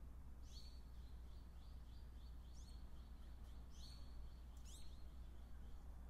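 Faint wild bird calls: four short, high notes sweeping downward, and for the first half a run of repeated high chirps about three or four a second, over a low steady hum.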